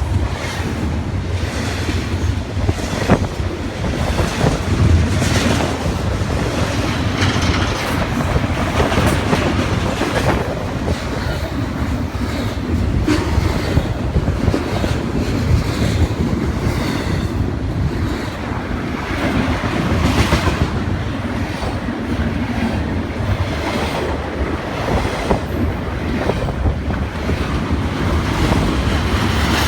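BNSF double-stack container freight train rolling past, its wheels clicking over rail joints in an uneven run of clicks over a steady rumble.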